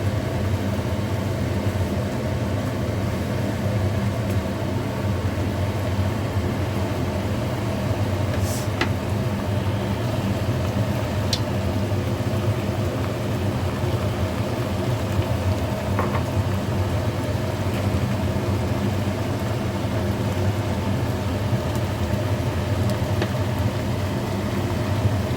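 A steady machine hum with an even hiss, broken by a few faint clicks.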